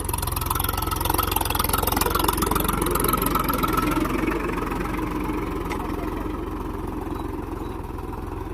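Tractor's diesel engine running steadily with an even firing beat, growing gradually fainter from about four seconds in.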